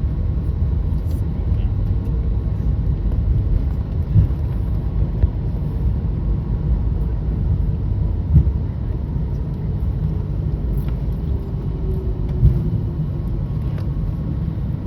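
Steady low rumble inside the cabin of an Airbus A321neo airliner, with a few short thumps about four seconds apart.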